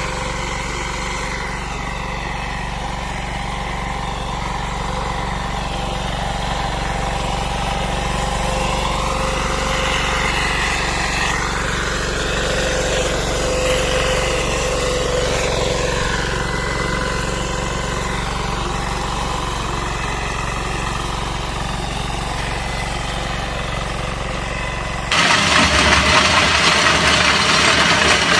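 A walking tractor's engine running steadily for most of the stretch. About 25 seconds in it cuts suddenly to a louder, hissier machine sound.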